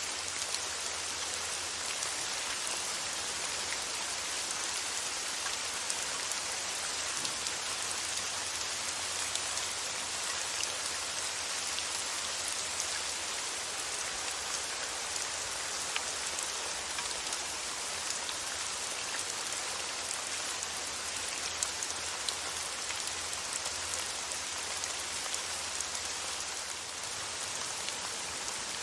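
Steady rain: an even hiss of falling drops with scattered sharper drop ticks, no thunder.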